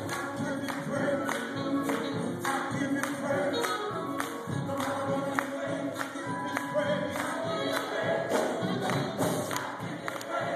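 Gospel music: voices singing together over a steady, quick percussive beat.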